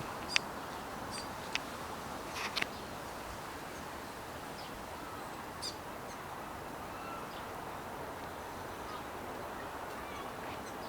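New Zealand fantail giving short, sharp, high chip calls: a few in the first three seconds, the loudest just after the start, then fainter ones.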